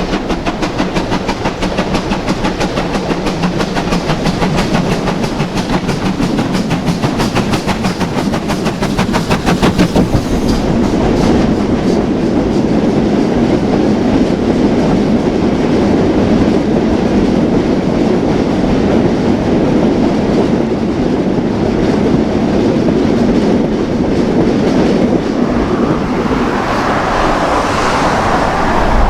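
Steam-hauled train passing along the line, with fast, even rhythmic beats for about the first ten seconds, then a steady rumble of the train rolling by.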